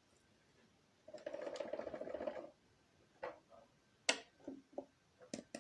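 Hard plastic parts being handled: a rattling scrape lasting about a second and a half, then separate sharp clicks that come faster and closer together near the end. The vacuum's motor is not running.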